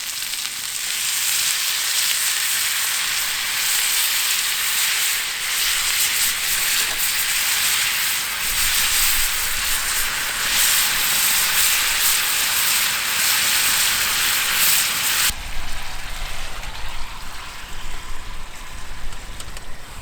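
Food sizzling in a frying pan, a dense steady hiss that cuts off abruptly about fifteen seconds in, leaving a quieter background.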